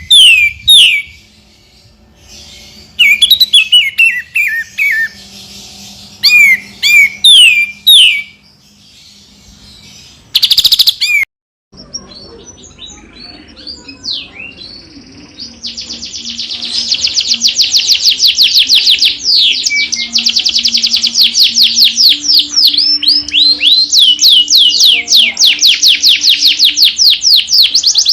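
Songbird tutor song for training a white-rumped shama: clear whistled phrases of falling notes at first, then after a short break about 11 seconds in, a long fast run of sharp repeated downslurred notes, a 'tembakan' (shooting) burst.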